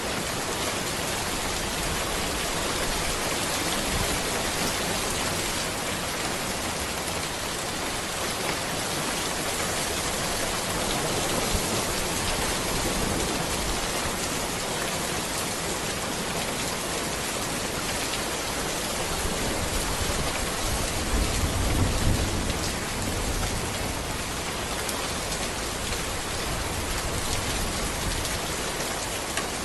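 Steady rain falling on a road among trees, a dense, even hiss. About two-thirds of the way through, a low rumble swells for a couple of seconds and fades.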